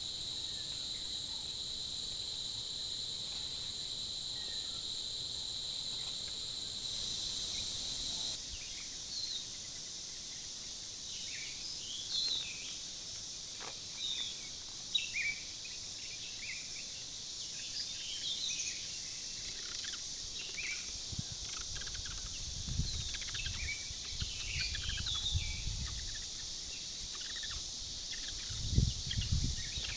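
Outdoor ambience: a steady, high insect drone that cuts off suddenly about eight seconds in. After that, many short bird chirps over a faint hiss, with a few low rumbling bursts of wind or handling on the microphone near the end.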